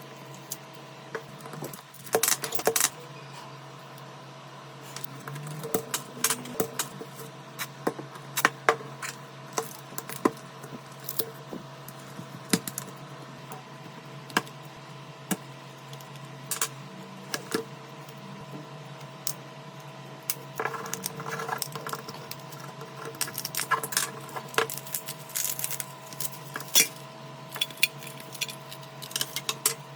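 Small tools and phone parts being handled during a smartphone repair: irregular sharp clicks, taps and light scrapes, busiest a couple of seconds in and again in the last third, over a steady low hum.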